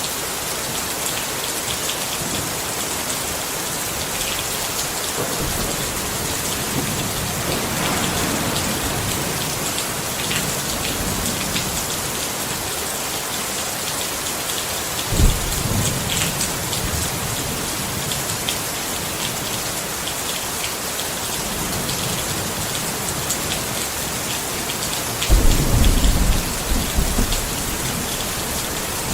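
Steady rain pattering on a tent, with thunder rumbling: a short low rumble about halfway through and a longer, louder rumble near the end.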